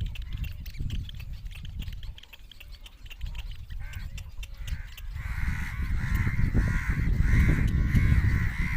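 Bird chicks, the young of a fish-eating bird, calling in a rapid run of harsh, repeated calls that start about five seconds in, over a low rumble and a few clicks.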